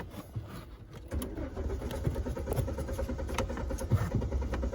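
Car engine cranking on its starter motor with an even, rapid pulsing from about a second in, not catching: the car will not start. A few light clicks come before the cranking begins.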